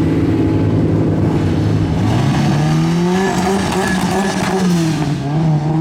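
Drift car engine running at a steady note, then revving up and down repeatedly from about two seconds in, with tyre squeal as the car slides.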